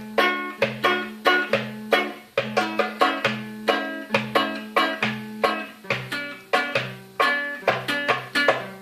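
Guitar and darbuka playing an improvised tune together: quick plucked guitar notes, each sharp at the start and ringing away, over repeated low bass notes in a steady rhythm, with hand-drum strikes mixed in.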